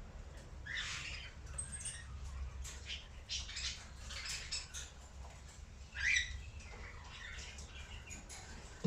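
Cockatiel giving short scratchy chirps and squeaks, with one louder rising call about six seconds in.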